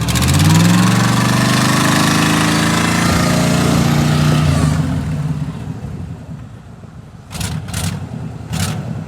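Vehicle engine revved hard as a car stuck in snow tries to drive out: the pitch climbs in the first second, holds high for about four seconds, then drops away. Three brief noisy bursts follow near the end.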